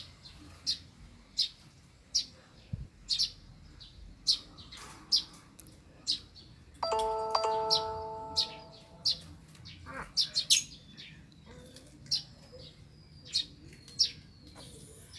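Lovebirds giving short, sharp, high chirps, repeated irregularly about once a second. About seven seconds in, an electronic two-note chime like a doorbell rings and fades over about two seconds.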